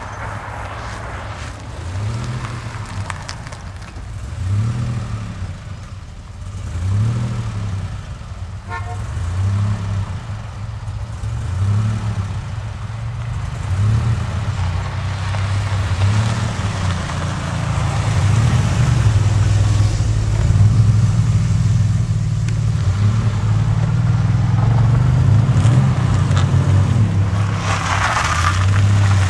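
A line of DeLorean DMC-12s driving past one after another, each car's PRV V6 engine swelling and fading as it goes by, about every two seconds. The engine sound grows louder over the stretch.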